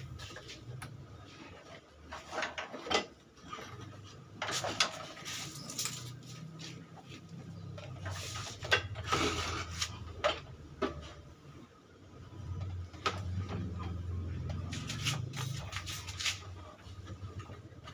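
Hand work on scooter engine parts: irregular scraping and rubbing with scattered light clicks and knocks, over a steady low hum.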